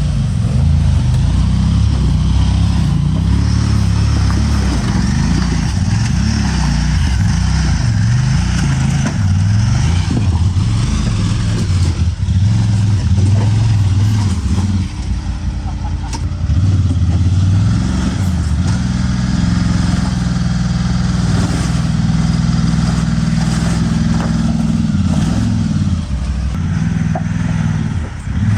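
Off-road vehicle engine working at low revs, its pitch rising and falling with the throttle, with a couple of brief dips in level.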